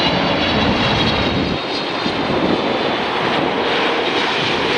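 Airliner engines running with a steady high whine, over heavy wind noise on the microphone. The low wind rumble drops away about a second and a half in.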